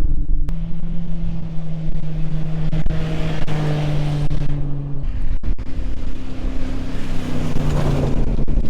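Motor vehicle engine running steadily, its pitch stepping to a new level twice, with some wind hiss.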